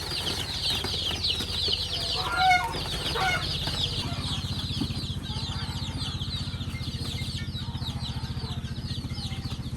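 A crowd of chicks peeping constantly in fast, high, falling chirps, with a few lower calls from an adult chicken about two to three seconds in. A steady low hum runs underneath.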